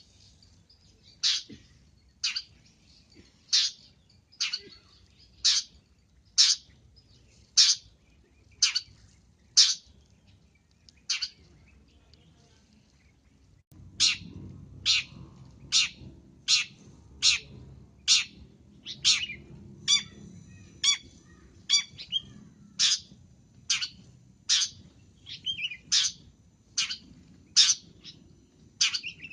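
Long-tailed shrike (pentet) giving short calls over and over, about one a second, as a recorded lure call for shrikes. The calls pause for two or three seconds about halfway, then resume over a low background rumble, with a few more tuneful notes mixed in.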